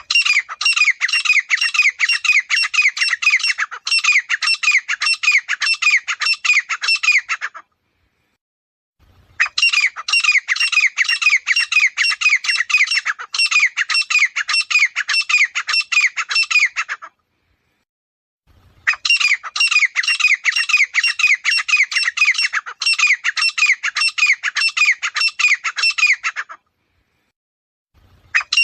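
Grey francolin calling: bouts of about seven or eight seconds of loud, quickly repeated shrill notes, three in a row, each broken off by about a second and a half of silence.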